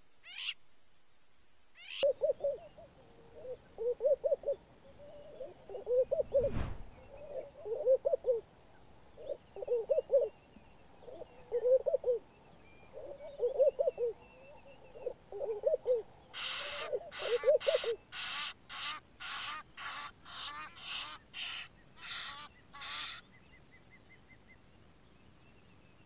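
Bird calls: a steady run of low hooting calls, about one or two a second. Near the end a faster series of harsh, higher calls takes over, about two to three a second. Two falling whistles open the sound, and there is a single low thump.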